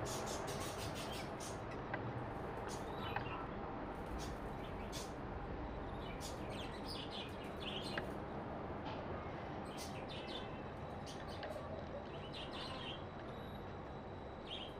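Small birds chirping now and then, in short high calls, over a steady background hum.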